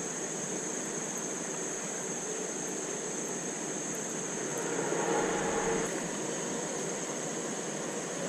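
Steady rush of flowing creek water below a spillway, with a steady high-pitched whine over it and a brief swell in the noise about five seconds in.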